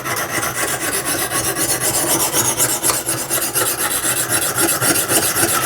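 Oiled coarse Lansky honing stone scraping steadily along a steel saw-blade edge in quick, repeated back-and-forth strokes, grinding in the bevel while working up a burr.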